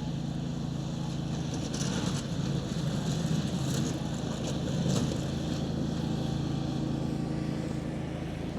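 A steady low mechanical hum with an even pitch, like an engine or motor running nearby. A few short crackling or crunching sounds come in the middle.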